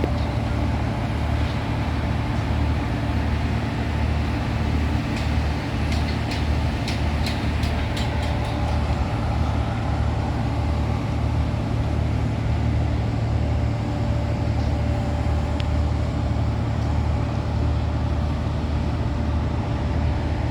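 Large engine running steadily: a low, evenly pulsing drone with a thin steady whine over it. A run of light clicks or knocks comes about five to eight seconds in.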